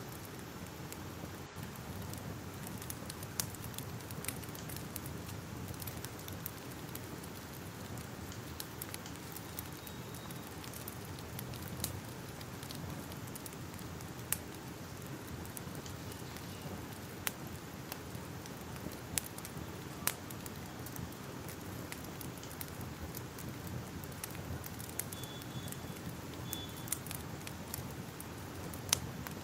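Wood fire crackling: a steady low hiss and rumble of flames with sharp pops scattered at irregular intervals.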